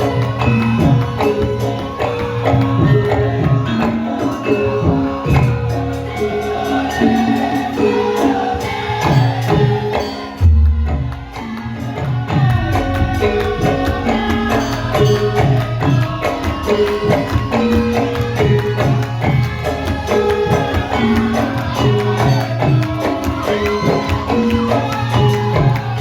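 Live Javanese gamelan music for a lengger dance: ringing pitched metal notes over steady hand-drum strokes, with jingling percussion. A single deep boom sounds about ten seconds in.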